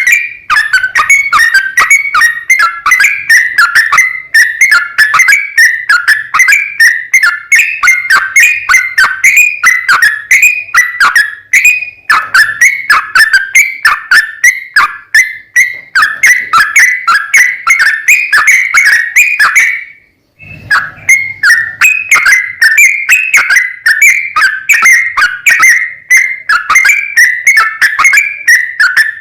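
Yellow-vented bulbul (trucukan) singing a fast, unbroken run of short bubbling whistled notes, many a second, with a brief break about two-thirds of the way through.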